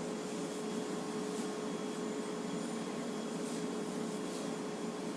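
Steady room tone: an even hiss with a constant low hum and a few faint ticks.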